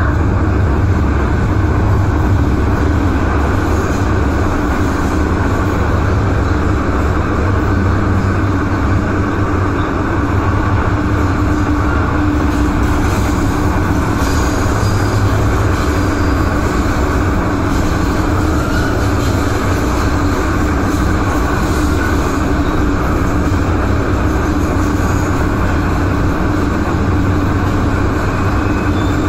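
MTR M-train electric multiple unit running steadily at speed through a tunnel, with a continuous rumble and low hum from the wheels and motors.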